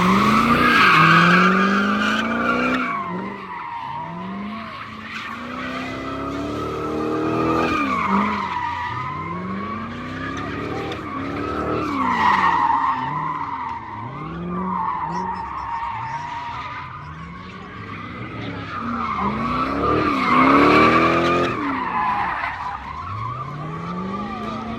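A car's tires squealing continuously in a long slide while the engine revs climb and drop back again and again, roughly every three to four seconds; loudest near the start and again about two-thirds of the way through.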